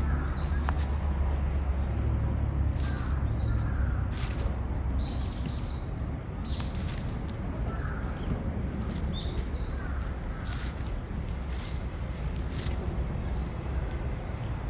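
Birds calling: short, sharp high call notes every second or so, with a few softer, lower chirps between them, over a steady low rumble.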